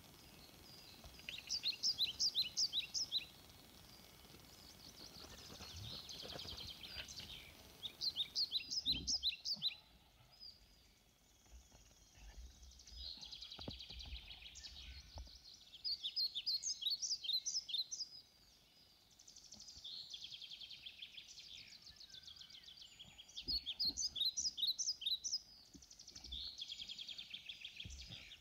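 A songbird singing: short phrases of quick, sharp notes repeated every few seconds, with softer warbling between them.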